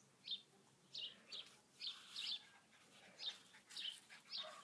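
Faint, short, high chirps, about eight of them at an uneven pace, as from a small bird calling. Right at the end a steady tone begins.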